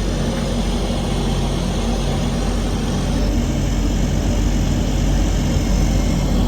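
Heavy diesel semi-truck engine idling steadily with a low, even hum.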